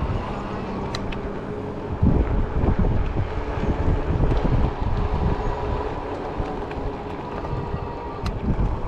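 Wind buffeting the microphone while riding a 20-inch fat-tire e-bike, with rolling noise and a faint steady whine underneath. A couple of sharp clicks, about a second in and near the end.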